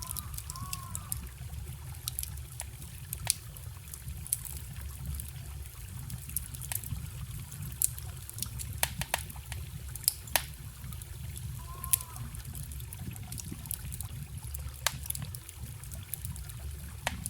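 Campfire crackling with irregular sharp pops, over the steady low rush of a forest stream.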